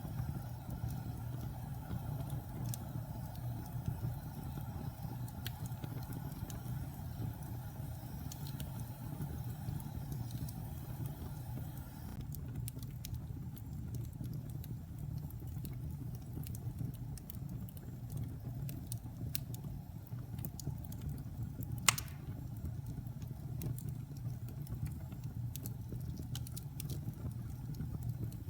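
Wood fire burning in a fireplace: a steady low rumble with scattered light crackles and one sharp pop about three-quarters of the way through.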